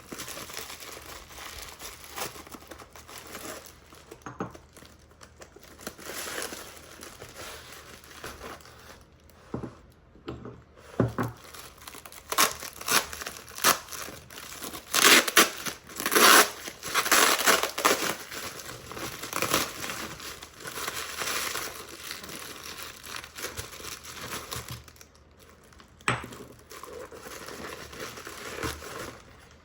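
A packing bag being opened and its wrapping crinkled and torn by hand, in irregular bursts of rustling that are loudest around the middle.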